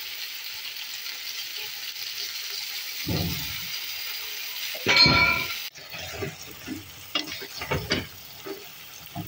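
Tomato and onion sauce sizzling steadily in a metal pot with chunks of peeled green banana, with a knock about three seconds in and a louder ringing clink about five seconds in. The sizzle then stops abruptly, and a wooden spoon stirs the bananas, knocking and scraping against the pot several times.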